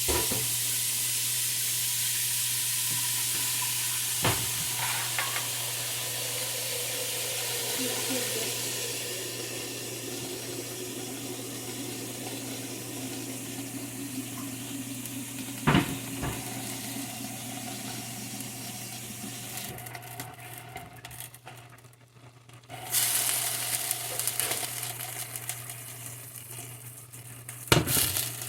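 Food sizzling in hot oil in a frying pan. The sizzle starts suddenly, slowly dies down, drops out briefly about three-quarters of the way through, then comes back, with a few sharp knocks of a utensil or pan. A steady low hum runs underneath.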